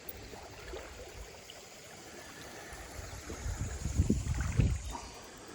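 Shallow creek water running and trickling, with a few louder low bumps about three and a half to four and a half seconds in.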